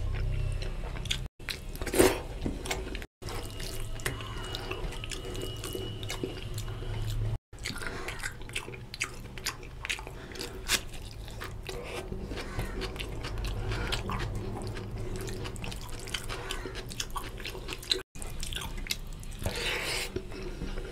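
Close-miked wet chewing and lip-smacking of oily curry and rice, mixed with the squelch of fingers working rice into gravy on a steel plate. A sharp click about two seconds in is the loudest sound, and the sound drops out briefly four times.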